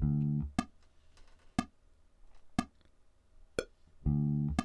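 Single bass guitar notes plucked and left to ring for under a second: one dies away in the first half-second and another sounds near the end. Between them a metronome click ticks steadily about once a second.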